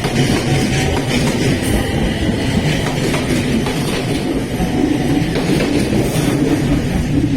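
A train running at a station platform: a loud, steady rumble of wheels and running gear that carries on without a break.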